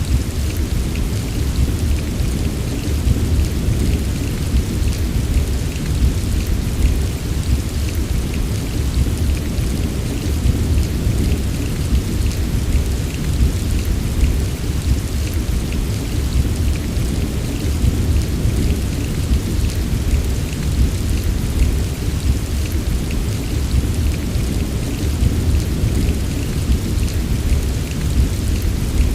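Heavy rain falling steadily, with a continuous deep rumble of thunder underneath and no separate claps.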